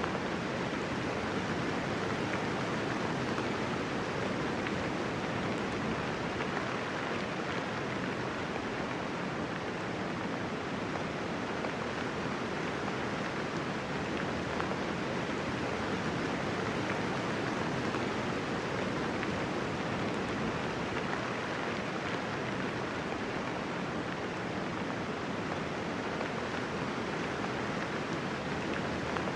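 Steady rainfall, a dense even hiss of many raindrops with no thunder and no single drops standing out.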